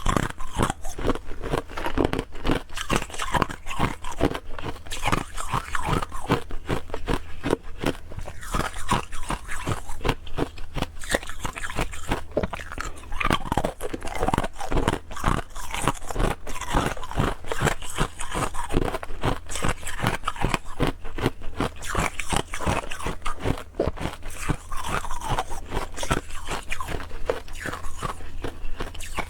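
Clear ice cubes being bitten and chewed close to the microphone: hard, rapid crunching that goes on without a break.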